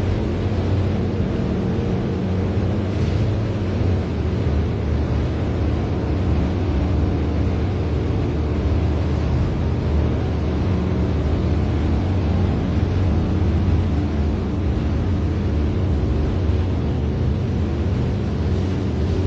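Steady low mechanical rumble with an even hiss over it, unbroken throughout.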